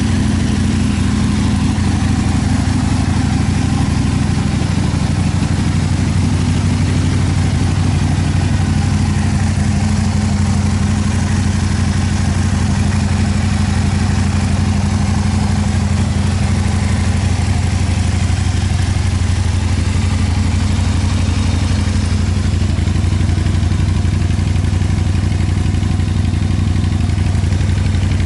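2008 Aprilia Tuono 1000 R's 998 cc V-twin idling steadily through aftermarket Akrapovic exhausts.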